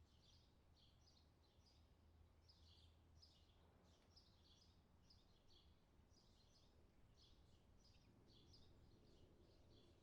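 Faint bird chirping: a continuous run of short high chirps, about two or three a second, over a low steady hum.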